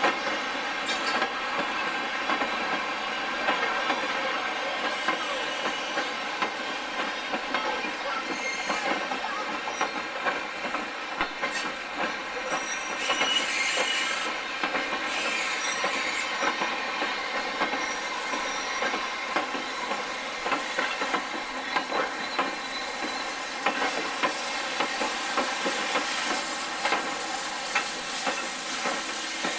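A railway locomotive or train on the rails, giving a steady, evenly pitched drone with scattered clicks.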